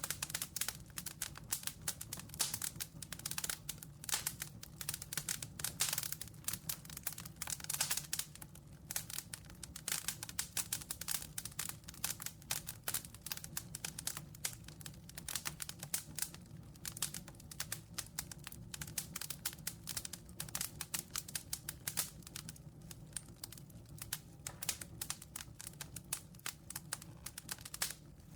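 Campfire crackling: a dense, irregular run of sharp pops and snaps over a low steady rumble of the burning fire.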